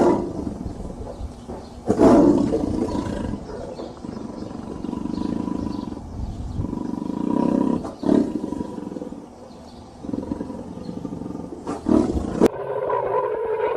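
A big cat roaring and growling in a series of deep calls, with new roars breaking out at the start and about 2, 8 and 12 seconds in.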